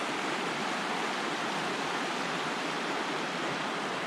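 Rushing creek water running over rocks, a steady, even rush.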